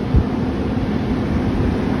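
Heavy vehicle engine running steadily with a low hum, mixed with wind buffeting the microphone and one brief low thump just after the start.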